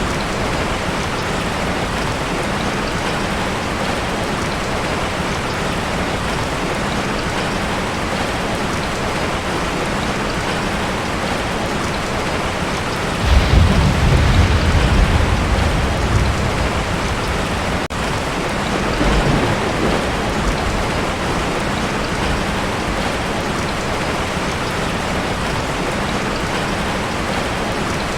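Heavy rain pounding steadily on a tin roof. About halfway through, a roll of thunder breaks in suddenly and rumbles for about three seconds, with a fainter rumble a few seconds later.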